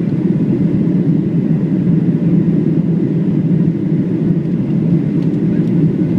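Steady cabin noise of a Boeing 737-700 in flight, heard from inside the cabin: the CFM56 engines and the rushing air blend into an even, low-pitched rumble that does not change.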